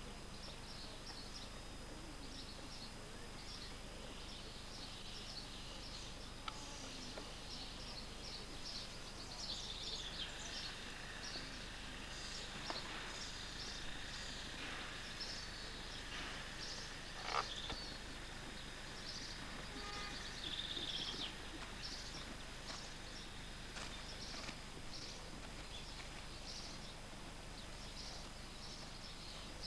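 Outdoor ambience of birds chirping again and again over a steady hiss, with one sharp click about two thirds of the way through.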